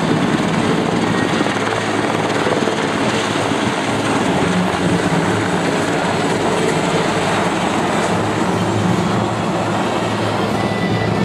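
Two CH-53 heavy-lift helicopters lifting off: a loud, steady din of rotors and turbines.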